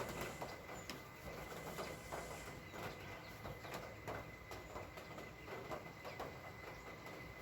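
Faint, irregular pattering of light rain or water drips on a wet street, with a soft background hiss and a thin, steady, high-pitched whine.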